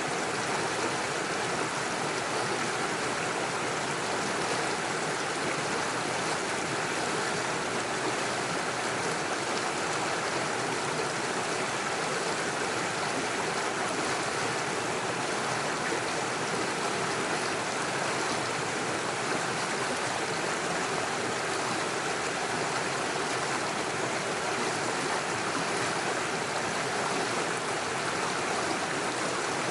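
Small rocky forest stream rushing and splashing over stones and little waterfalls, a steady, unbroken flow.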